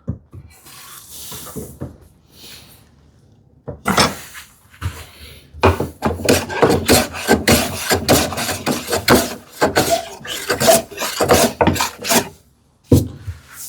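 Hand plane taking shavings off a wooden drawer box in a quick run of short strokes, easing a drawer that sticks in its opening. Quieter handling comes first, and the strokes start about four seconds in and stop shortly before the end.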